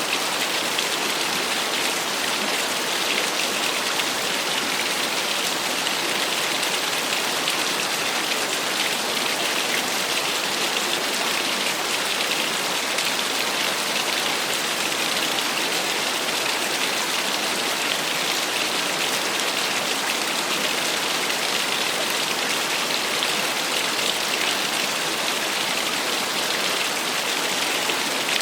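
Small waterfall splashing: a steady, even rush of falling water.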